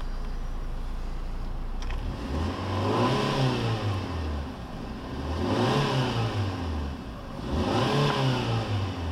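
Fiat Grande Punto's 1.2-litre four-cylinder petrol engine idling, then revved three times with the car standing still. Each rev climbs to around 3,500–4,000 rpm over about a second and falls back to idle.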